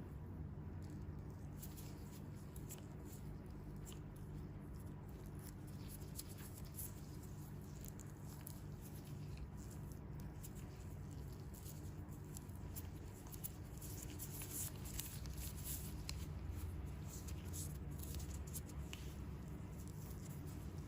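Faint, irregular crackling and rustling of hands working on the peeling dead skin of bare feet, over a steady low hum.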